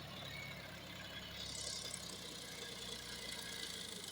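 Tractor engine running steadily at low revs, with a high hiss joining about a second and a half in.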